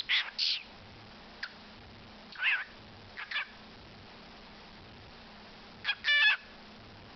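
A pet talking bird giving a handful of short, high chirps and squawks spread over several seconds. The loudest is a clearer pitched call near the end.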